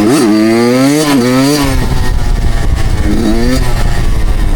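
Suzuki two-stroke dirt bike engine revving up and down in quick throttle blips. About a second and a half in it settles to a low rumble, with one more short rev about three seconds in.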